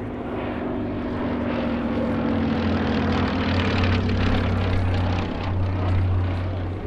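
Piston-engined propeller aircraft flying past, its engine drone swelling to its loudest around the middle and easing slightly toward the end.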